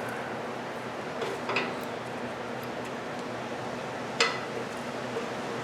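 Hand tools clinking against metal while bolts are run up: a few light metallic clinks over a steady low background, the sharpest about four seconds in.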